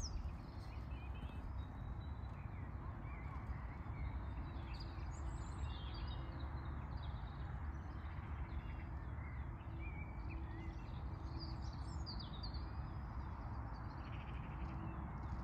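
Birds calling throughout, with many short chirps and whistles, over a steady low background rumble.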